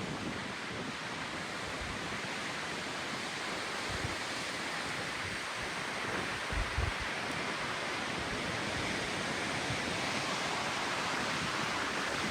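Windstorm gusts blowing in a steady rush, with brief low wind buffets on the microphone about four and about seven seconds in.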